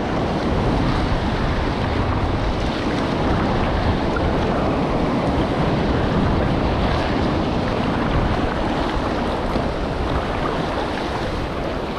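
Steady wind noise on the microphone over the wash of sea waves around a kayak.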